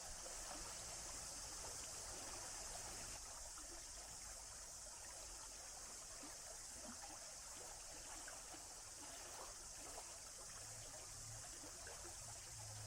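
Stream trickling and flowing, a steady faint rush of water.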